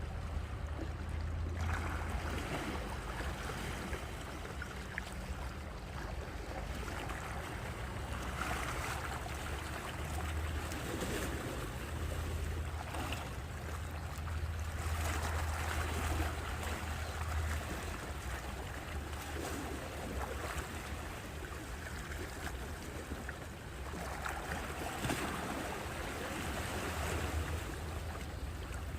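Sea waves washing onto the shore, swelling every several seconds over a steady low rumble.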